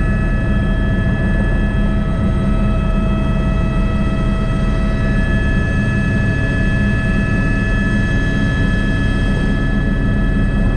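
Airbus AS350B3 (H125) helicopter running in flight: the single turboshaft engine and gearbox give a steady whine of several high tones over the dense low rumble of the rotor.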